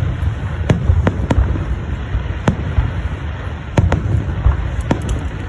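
Fireworks going off: a string of sharp bangs at uneven intervals, some close together, over a steady low rumble.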